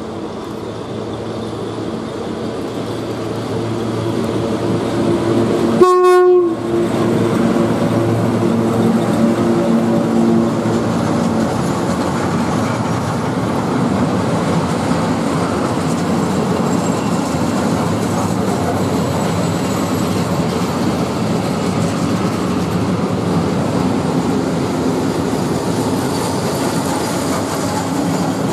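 A train draws near, growing steadily louder with a low hum. About six seconds in it gives a short horn blast. Then it rolls past with steady wheel and rail noise.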